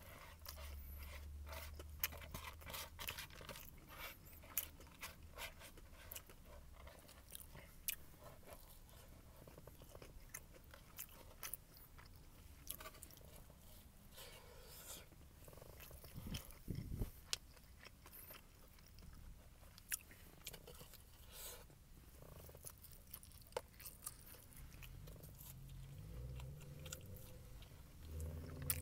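Close-up chewing and crunching of a fried chicken and glazed donut sandwich, with scattered sharp crunches from the crispy chicken breading.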